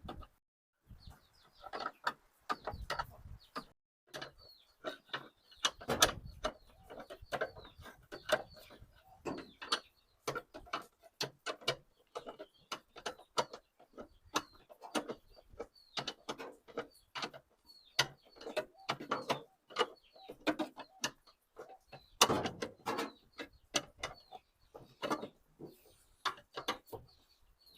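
Irregular metallic clicks and clinks of a wrench tightening bolts on a washing machine's gearbox cover, with young chickens peeping faintly.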